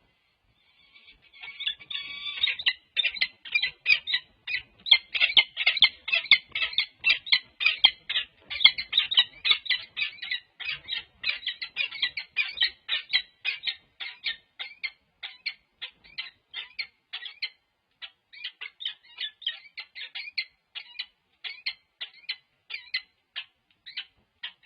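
Peregrine falcon calling from the nest ledge: a long run of short squawking calls, about three a second. The calls thin out and come further apart in the second half.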